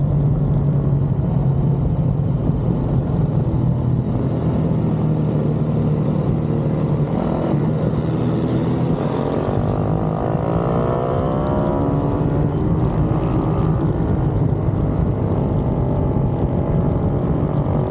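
Pit bike engines running steadily at high revs, with one engine's note climbing in pitch from about seven seconds in to about ten seconds.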